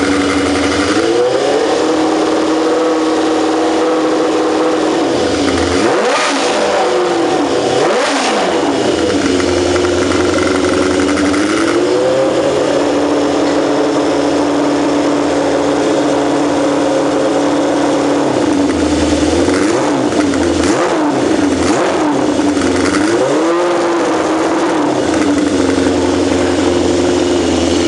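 Honda CB inline-four motorcycle engine running at idle and being revved: several quick throttle blips, and a stretch held at higher revs in the middle before it settles back to idle.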